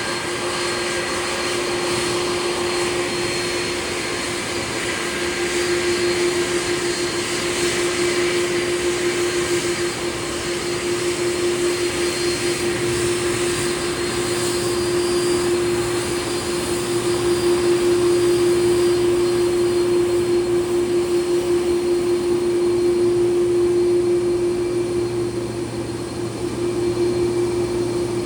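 Airbus A330 jet engines running steadily: an even rush of engine and air noise with a constant hum underneath.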